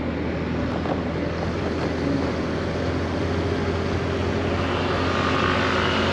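Scooter engine running steadily under wind and road noise heard from the rider's position, with a higher whine growing louder over the last two seconds.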